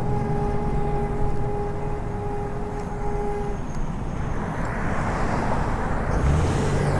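Wind and road rumble on the camera microphone of a moving Lectric XP electric bike. A steady hum runs for the first three and a half seconds, then stops, and a rushing noise grows louder through the second half.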